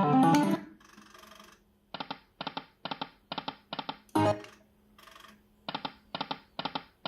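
Electronic sounds of a Timber Wolf slot machine: a short musical jingle, then a run of evenly spaced short chime blips, about two to three a second, broken by another brief jingle about four seconds in.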